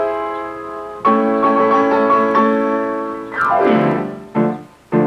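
Piano music: held chords ringing and fading, a new chord struck about a second in, a downward slide in pitch past the middle, then short, separate staccato chords near the end.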